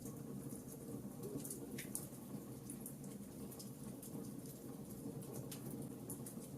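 Wood fire burning: a low steady rumble with sparse, irregular crackles and pops.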